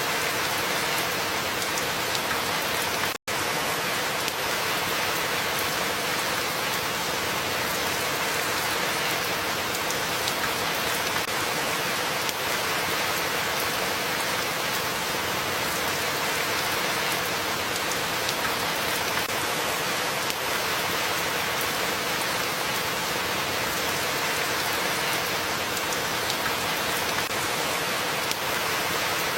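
Steady rain falling, an even, unbroken hiss. There is a split-second gap of silence about three seconds in.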